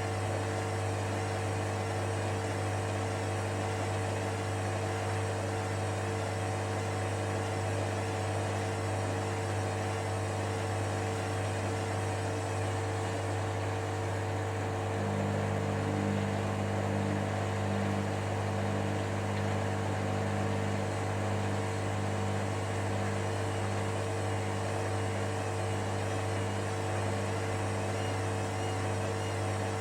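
Hoover Dynamicnext washer-dryer running with a steady motor hum while it repeatedly tries to balance an unbalanced bathmat load for the spin. About halfway through, extra low tones join and the sound grows slightly louder as the motor changes speed.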